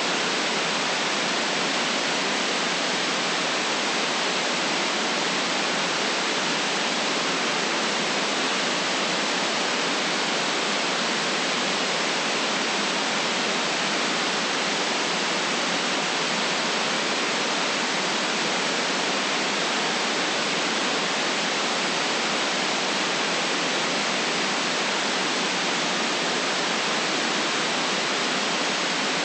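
Steady synthetic white noise: an even, unchanging hiss with no rumble underneath.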